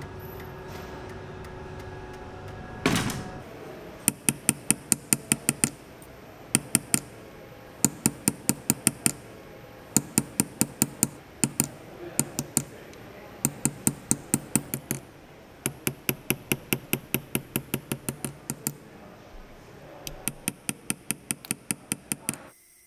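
Hammer striking silver in quick runs of blows, about six or seven a second, with short pauses between runs; one heavier thud comes about three seconds in. A steady workshop hum runs underneath at the start.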